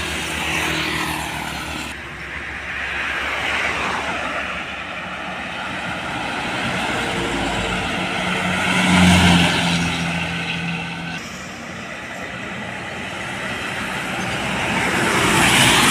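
Heavy road vehicles driving past one after another, engine and tyre noise swelling and fading as each goes by. The loudest pass comes about nine seconds in, with a low steady engine note, and another vehicle passes close near the end.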